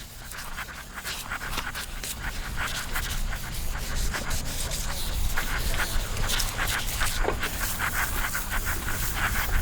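Sandpaper rubbed back and forth by hand over the car's painted roof in quick, rhythmic strokes, growing louder over the first few seconds.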